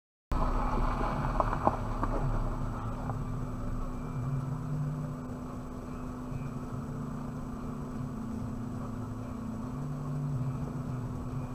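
Suzuki Jimny running steadily, its engine and drivetrain heard from inside the cabin through a dashcam microphone, with a few sharp clicks about a second and a half in.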